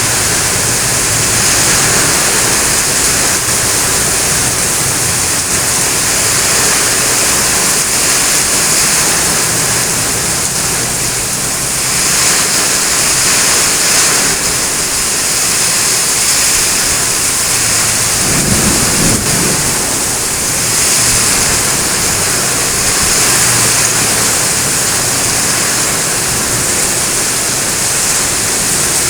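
Heavy rain pouring steadily, a loud even hiss that swells and eases a little. A brief low rumble comes about two-thirds of the way in.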